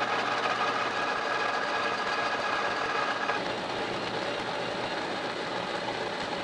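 Steady running noise of shop machinery with a low hum. A set of high steady tones drops out about three seconds in while the rest carries on.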